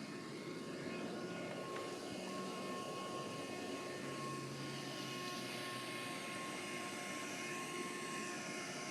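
A vacuum cleaner's motor running steadily, with a constant whine over the drone of its airflow.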